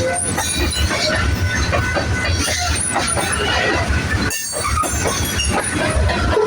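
BNSF freight train of empty manifest cars rolling past: a steady rumble of steel wheels on rail, with thin high wheel squeals over it.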